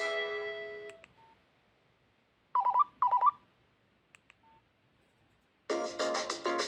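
Nokia 3110 Classic ringtones playing: a guitar-like tune fades out in the first second. About two and a half seconds in there is a short electronic tone of two quick beeps, with a couple of faint key blips around it. Near the end a new melody with a fast, repeating beat starts abruptly.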